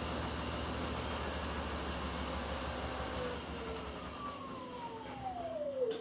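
Beko WTK104121W washing machine at high spin, its drum rumbling steadily, then winding down: from about halfway in the motor gives a falling whine as the drum slows and the rumble dies away. A sharp click comes just before the end.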